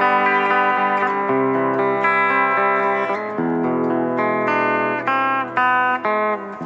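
Harley Benton Fusion electric guitar on its bridge pickup, played with a clean tone through a Fractal Audio amp modeler. Sustained ringing chords change about once a second, with a few short breaks between notes near the end.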